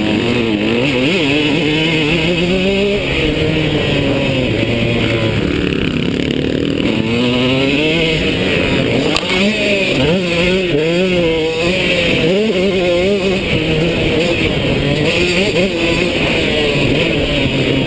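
KTM two-stroke motocross bike engine revving, its pitch rising and falling again and again as the throttle is worked on the track.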